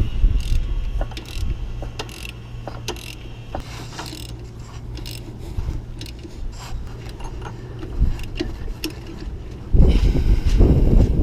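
Ratchet wrench clicking in irregular strokes as a long M12 bolt with washers is turned to press a part onto the engine, with a louder burst of low noise near the end.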